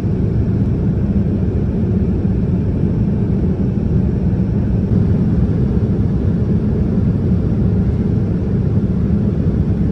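Steady low rumble of a Boeing 787-10 passenger cabin in flight, engine and airflow noise heard from an economy seat.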